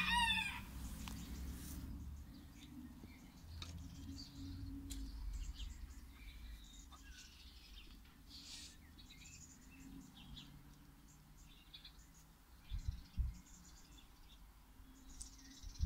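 Small birds chirping and twittering faintly in short scattered calls, with one louder falling call at the very start. A low rumble of handling runs underneath, with a couple of soft knocks near the end.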